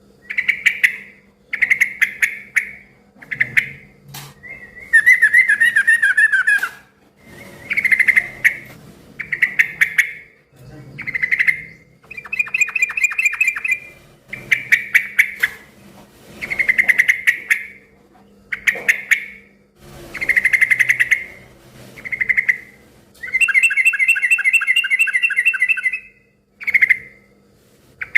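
Yellow-vented bulbul (trucukan) singing in short, bubbly, chattering phrases, repeated about every one to two seconds, with a few longer phrases in between.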